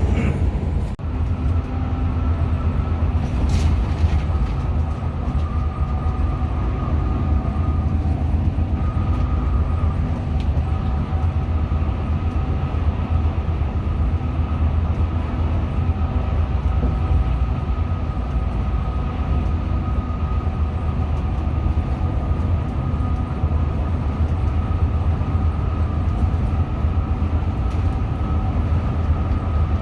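Hino RM 280-powered coach on the move: a steady, loud low rumble of engine and road, with a faint steady whine over it.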